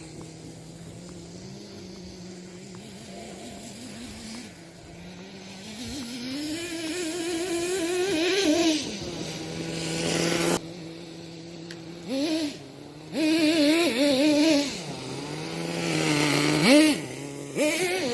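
Kyosho Mad Force nitro RC monster truck's small glow-fuel engine, steady at a low idle at first, then climbing in revs for a few seconds before dropping back abruptly. After that it gives several short, sharp throttle blips.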